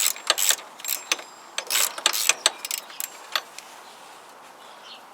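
Hand tools being worked on metal bolts: a string of sharp, irregular metallic clicks and clinks that stops about three and a half seconds in.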